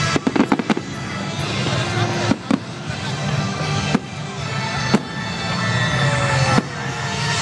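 Fireworks display: aerial shells bursting with sharp bangs, a quick cluster of reports in the first second, then single bangs every second or so.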